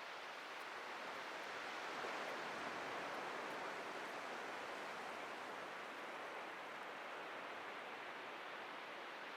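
Atlantic ocean surf breaking and washing on a beach: a steady hiss of waves that swells about two seconds in and then slowly eases off.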